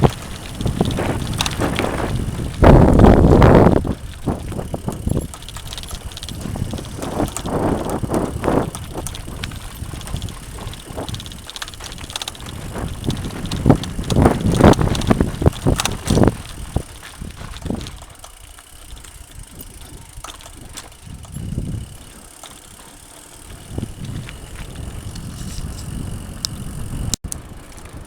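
Mountain bike riding a rough dirt trail: tyre noise with irregular knocks and rattles from rocks and roots. A loud burst comes about three seconds in, and the riding grows quieter in the last third.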